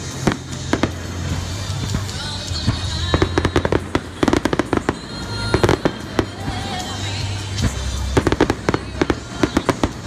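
Aerial fireworks bursting overhead, with several runs of rapid crackling pops from the shells' crackling stars.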